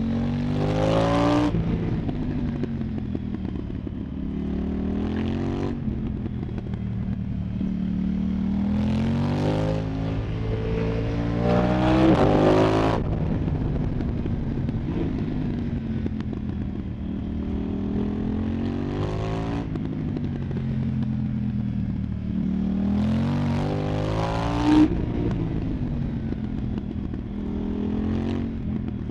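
KTM 990 Duke's parallel-twin engine through an Arrow Pro Race exhaust, under way. The revs climb and then fall away about seven times as the rider accelerates and lets off. There is one short sharp crack about 25 seconds in.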